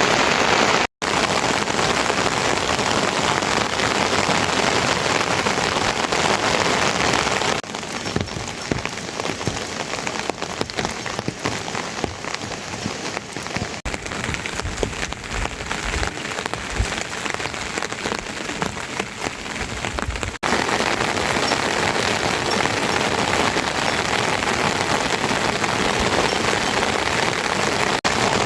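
Heavy rain falling in a steady hiss. In the middle stretch it is quieter and separate drops stand out, then the full downpour returns.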